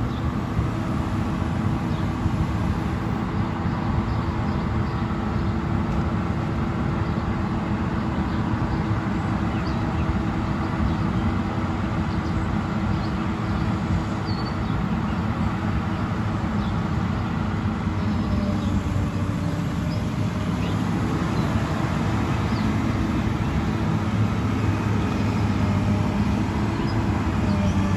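An engine running steadily at constant speed: a low drone that holds its pitch throughout, with faint short high chirps now and then.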